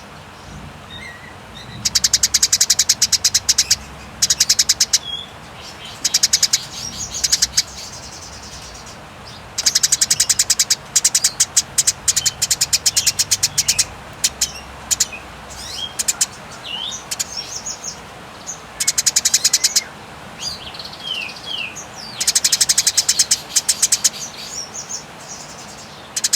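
Eurasian tree sparrows in agitated, fighting-mode song: repeated bursts of rapid, high chattering chirps, each burst lasting one to five seconds, with softer single chirps in the gaps.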